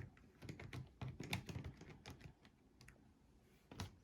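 An N-scale model train being handled by hand on the track after a mishap: faint, irregular small plastic clicks and taps, with a sharper click near the end.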